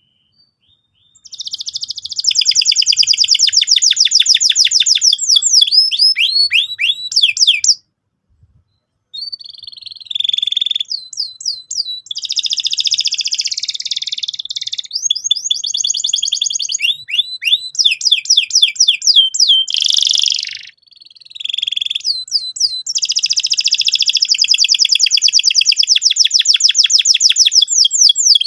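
Domestic canary singing loudly in long, fast rolling trills: sweeping notes repeated many times a second, with changes between tours. It begins about a second in, pauses for about a second some eight seconds in, and breaks off briefly past two-thirds of the way through.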